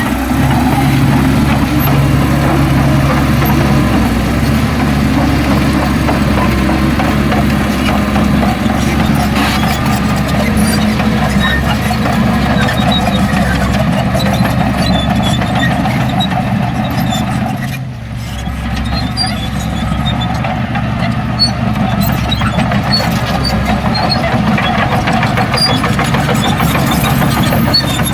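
Heavy diesel engine of earthmoving machinery running steadily under load, with a brief dip in level about two-thirds of the way through.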